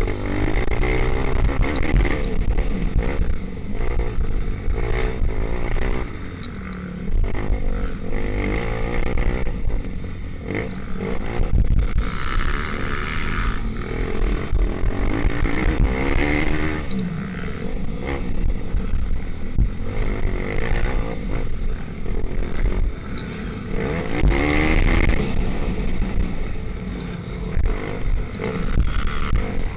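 Pit bike engines racing, revving up and down repeatedly as the bikes accelerate and shift.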